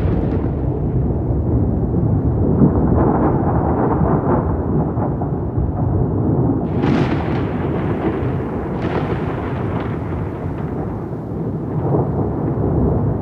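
Rolling thunder: a continuous deep rumble, with sharp cracks of thunder about seven and nine seconds in.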